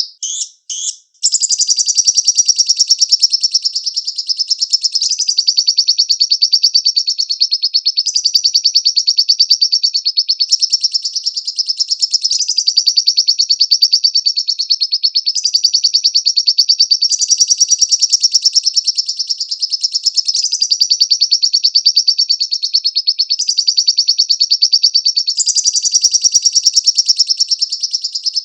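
Lovebird singing: a long, unbroken stream of rapid, high-pitched chattering trills. It opens with a few short bursts, and the phrasing shifts every couple of seconds.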